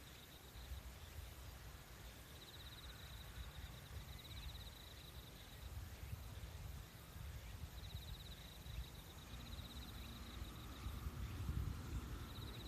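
Nature ambience: a high, rapidly pulsing trill from a small animal, coming in bouts of a couple of seconds every few seconds, over a low steady rumble.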